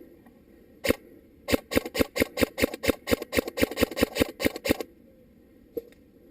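Airsoft rifle firing: a single shot, then a rapid string of about twenty shots at roughly six a second, each a sharp click.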